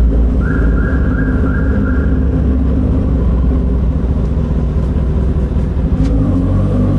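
Kawasaki ZX-10R inline-four engine running with its catalytic converter and stock exhaust removed, giving a loud, deep rumble that dips briefly about six seconds in.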